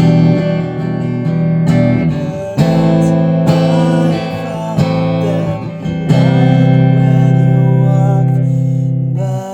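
Schecter Custom Shop Telecaster-style electric guitar played through an Orange AD30 valve amp, with chords struck about every second or so and left to ring. Near the end one long chord is held for about three seconds, then cut off.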